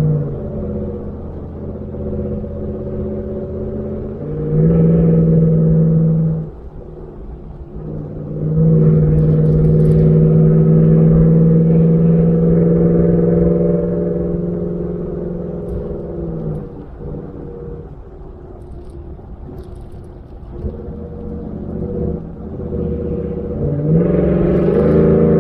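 2019 Ford F-150's Borla ATAK aftermarket exhaust droning loudly as the truck accelerates in three surges: briefly about four seconds in, for a long pull from about eight to sixteen seconds, and again near the end. It drops back to a quieter rumble between them as the driver lifts off.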